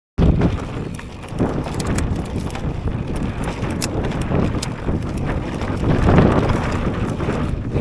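Strong wind buffeting an action camera's microphone while a mountain bike rides over a rough trail, with steady rumble and scattered small clicks and rattles from the bike and ground.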